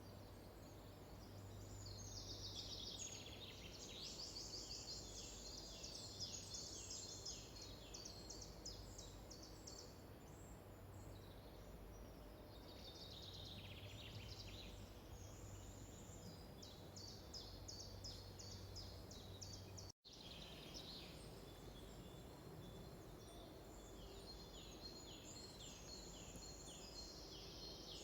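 Faint songbirds singing: bouts of quick, repeated high chirping notes over a low steady background, with a momentary break about twenty seconds in.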